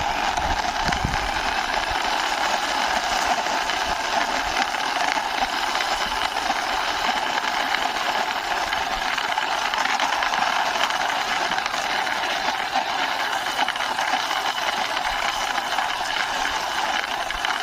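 A plastic toy car pushed by hand along a wall, its wheels and gearing giving a steady whirring rattle that runs without a break.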